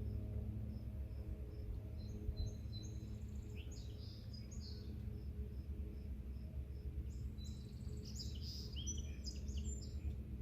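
A songbird sings two short phrases, about two seconds in and again about seven seconds in, over a cricket chirping steadily about two or three times a second. A low steady hum runs underneath.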